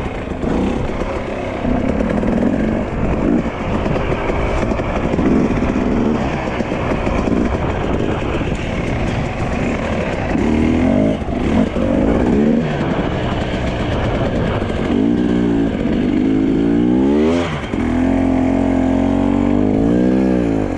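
Dirt bike engine running hard, the revs rising and falling again and again as the throttle is worked. Toward the end the revs swing up and down several times in quick succession, with a brief drop about three-quarters of the way through.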